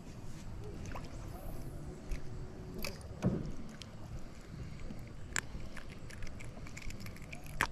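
Kayak on a creek: a steady low wash of water and wind around the boat, with a few sharp clicks and knocks from handling gear in the hull.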